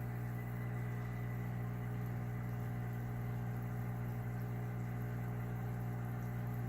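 Steady low electrical hum of a large aquarium's running equipment, unchanging throughout.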